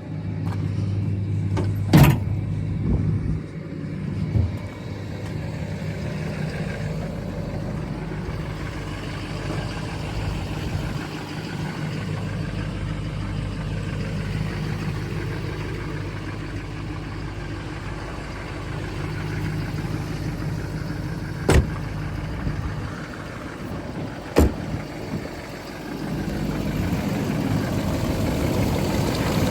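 2005 GMC Sierra 3500 pickup engine idling steadily, with three sharp knocks or slams: one about two seconds in and two close together near the end.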